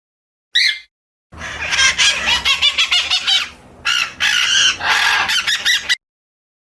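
Birds calling: one short call, then about a second in a dense run of repeated calls that goes on for about five seconds and cuts off suddenly.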